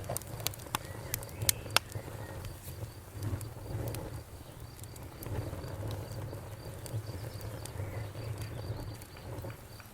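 Wood fire crackling, with sharp pops that come thickest in the first two seconds, over a low steady rumble of the flames. A faint, steady high chirring of crickets runs behind it.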